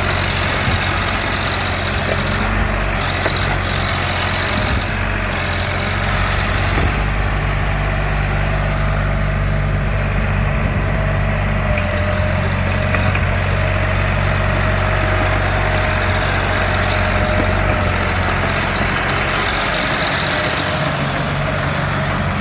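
Tractor diesel engine running steadily with an even, low drone.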